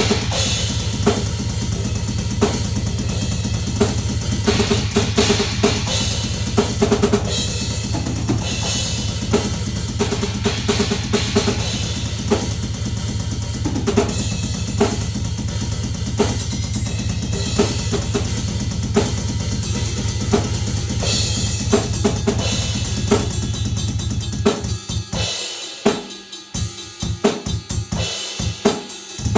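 Drum kit being played, with rapid, dense strikes of bass drum, snare and cymbals over a steady low drone. The drone stops about 24 seconds in, and the drumming goes on with sparser hits.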